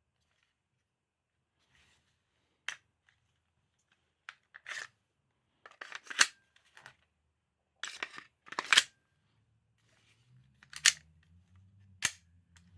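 Sharp mechanical clacks and snaps of a KWC Taurus PT24/7 PRO DS airsoft pistol being worked by hand, about a dozen irregular clicks with the loudest paired snaps like the slide being pulled back and let go.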